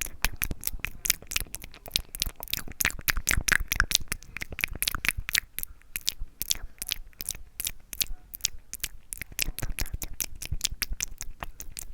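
ASMR mouth sounds made close to the microphone: a rapid run of wet clicks and smacks, several a second without a break.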